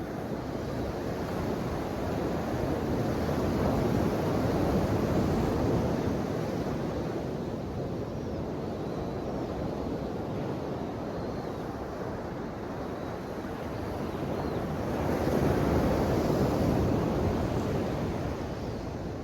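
Ocean waves washing ashore, a continuous surf that swells twice as two waves break, about ten seconds apart.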